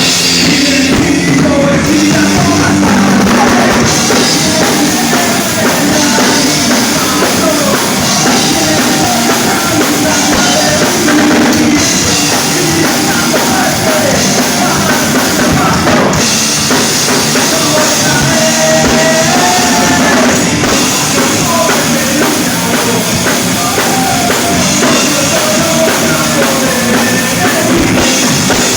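Rock band playing live at full volume: drum kit driving a steady beat under guitars, with a wavering melodic line on top.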